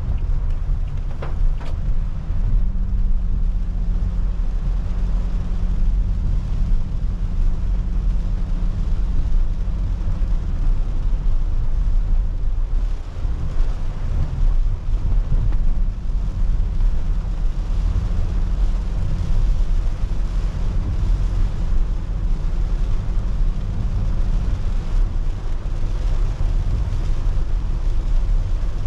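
Car driving on a wet road in rain: a steady low rumble of road and tyres under an even hiss of rain and spray.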